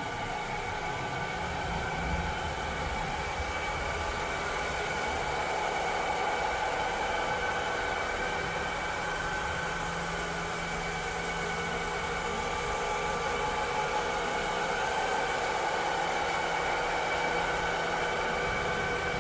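Robot vacuum cleaner running: a steady whirring motor with several held whine tones over an even hiss.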